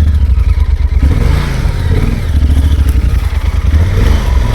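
Motorcycle engine running as the bike pulls away and rides, its pitch rising and falling a few times with the throttle over a heavy low rumble.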